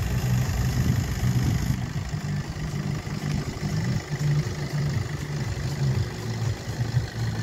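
VW Golf Mk7 1.6 TDI four-cylinder turbodiesel engine idling.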